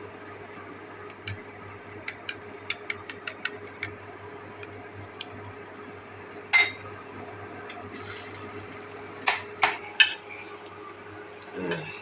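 Kitchen knife and utensils at work: a quick run of light knife taps on a cutting board, about four or five a second, then a few louder clinks and knocks of utensils against dishes.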